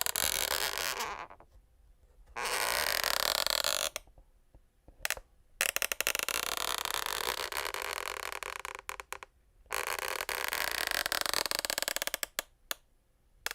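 Wooden parquet floorboards creaking: a series of long, rasping creaks, each one to four seconds long, with short pauses between them.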